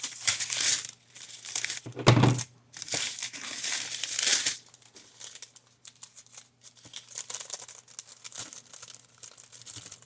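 Plastic crinkling and rustling as small packets of craft supplies are handled, loudest in the first half, with a single thump about two seconds in, then lighter rustles and clicks.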